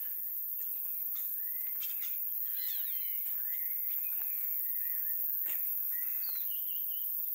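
Birds chirping and whistling: several short calls that rise and fall in pitch, over faint outdoor hiss.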